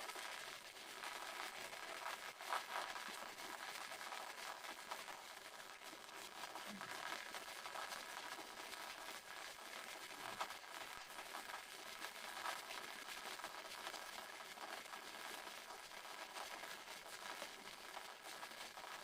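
Waterfall: steady rushing of falling water, an even hiss, with a few faint ticks.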